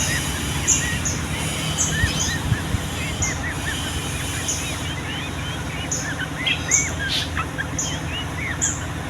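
Yellow-vented bulbuls (trucukan) chattering in a long run of quick, short rising-and-falling chirps, with a higher short note repeating about once a second over a steady low hum.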